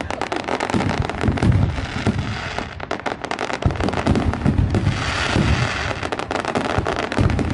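Fireworks going off: dense, rapid crackling pops over a series of deep booms.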